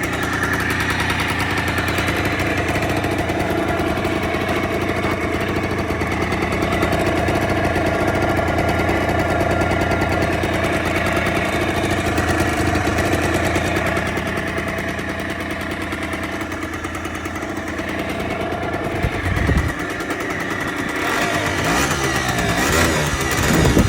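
Honda Tact AF30 scooter's small two-stroke engine idling steadily, with two short louder moments near the end.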